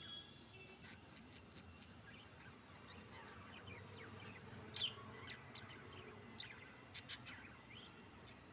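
Budgerigars chirping and chattering quietly in quick short notes, with a sharper call about halfway through and two more close together near the end.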